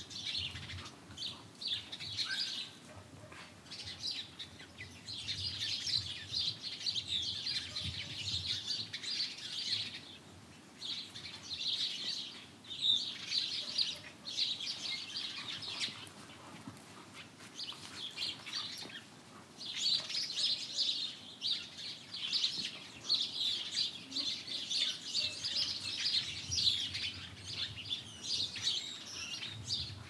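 Many small birds chirping, high-pitched and busy, in stretches of a few seconds with short lulls between them.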